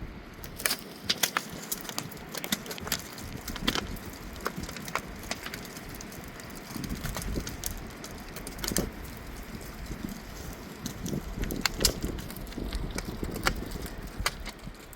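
Dry wood snapping and splintering: irregular sharp cracks, sometimes several in quick succession, over a low rumble.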